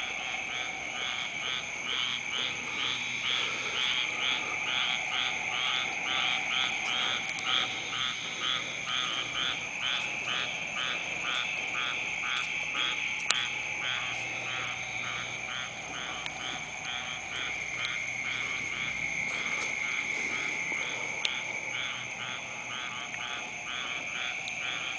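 A chorus of frogs calling. One caller repeats a short croak about two to three times a second over a steady, continuous trilling from others.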